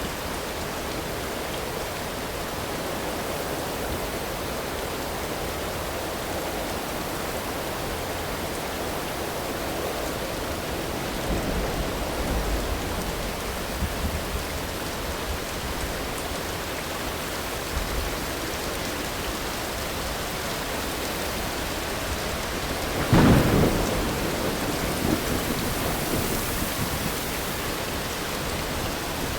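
Thunderstorm: steady rain with thunder, a low rumble about halfway through, then a sharp, loud thunderclap about two-thirds of the way in that rumbles away over the next few seconds.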